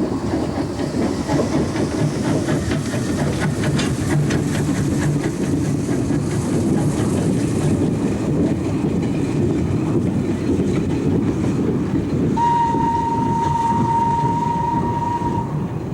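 Ex-Great Northern Stirling J52 0-6-0 saddle tank steam locomotive running, a steady rumble with a run of rapid clicks in the first half. About twelve seconds in, a steam whistle sounds one long steady note for about three seconds.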